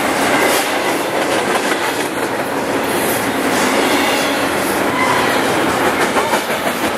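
A train's railroad cars rolling past at close range, a steady loud rumble of steel wheels on rail with clickety-clack over the rail joints.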